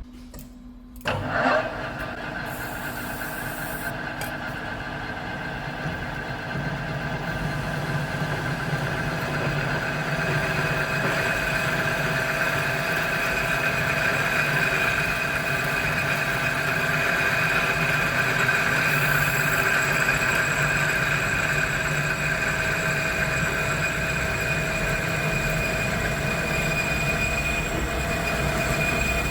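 A 30 mm drill boring through the centre of a steel plate: a sharp hit about a second in as it bites, then a steady cutting whine with several held tones that grows louder over the first ten seconds.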